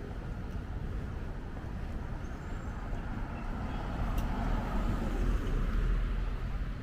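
City road traffic, with a vehicle passing that swells louder about four seconds in and fades near the end.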